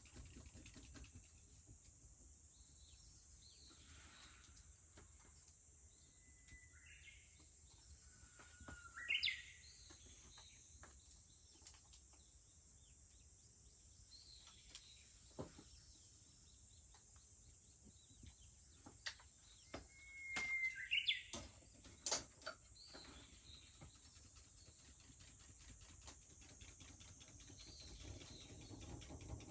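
A Japanese bush warbler sings its "hoo-hokekyo" song twice, each time a long whistled note followed by a quick rising flourish. Sharp crackles from a wood fire sound now and then, over a steady high-pitched cicada drone.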